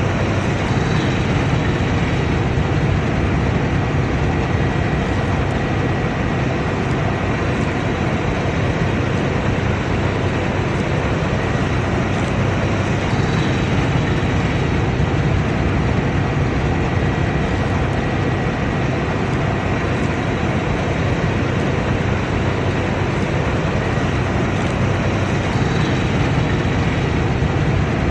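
Combine harvester running steadily under load: an even machine drone with a faint, steady high whine above it.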